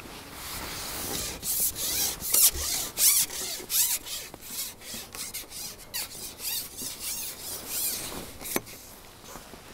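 Close handling noise: a run of irregular rubbing and scraping strokes, loudest in the first half, with a sharp click near the end.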